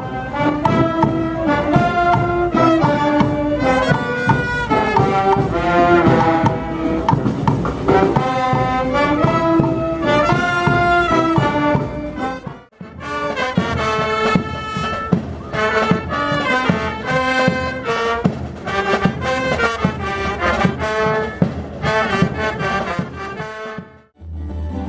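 Brass band music, trumpets and trombones playing a melody. It breaks off abruptly about halfway through and another brass passage starts.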